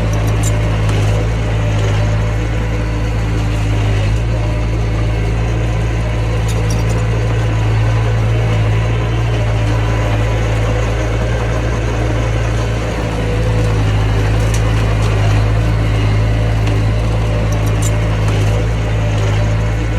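Mini bulldozer's diesel engine running steadily, with a brief dip in its note about two-thirds of the way through.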